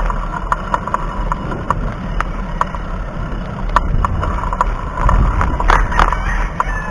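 Wind and road noise on a chest-mounted action camera's microphone while riding a bicycle, with a light regular ticking about two to three times a second. The rush grows louder about five seconds in.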